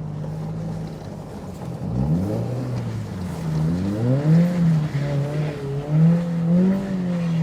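Turbocharged Scion FR-S's flat-four engine, steady at first, then revving up about two seconds in and rising and falling several times as the wheels spin on ice without grip.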